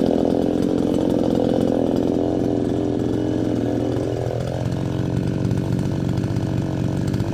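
Neotec NS862 62cc two-stroke chainsaw running while bucking a firewood round, its engine note shifting about four and a half seconds in.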